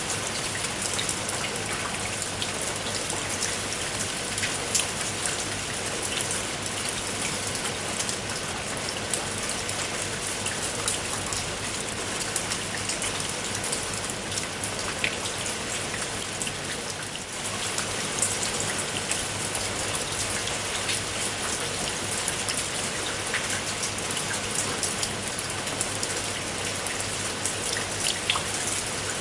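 Steady rain falling, with many separate drops striking a surface as sharp little clicks over the even hiss of the rain. It eases slightly for a moment about seventeen seconds in.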